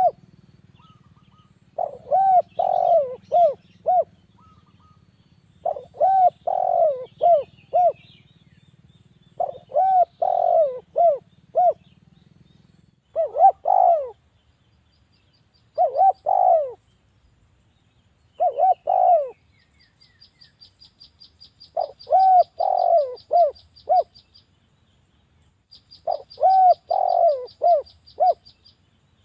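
Spotted dove (derkuku) cooing: about nine phrases of several quick coo notes each, spaced every three to four seconds, as a lure call meant to set other derkuku calling. From about two-thirds of the way in, a rapid high ticking series runs between the phrases, with a faint low hum under the first part.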